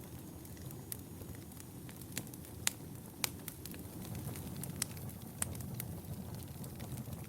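Wood fire burning in a fireplace: a steady low rumble of the flames with irregular sharp crackles and pops, the loudest a couple of pops a few seconds in.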